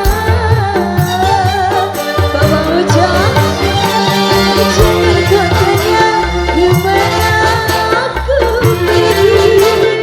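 Live dangdut band playing an instrumental passage: a wavering lead melody over a steady beat of drums and bass.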